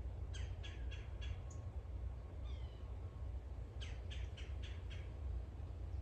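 A bird calling in two quick runs of about five short, harsh notes each, roughly four a second, with a single slurred call between them. A low steady rumble lies underneath.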